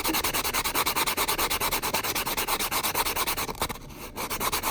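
Metal coin ring's cut edge being sanded on a nail file board: rapid, even back-and-forth rubbing strokes, with a short break about three and a half seconds in.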